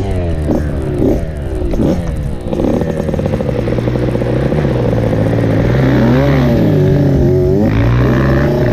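Dirt bike engine revving up and down in quick throttle blips for the first couple of seconds, then running more steadily under throttle with smaller rises and falls in pitch.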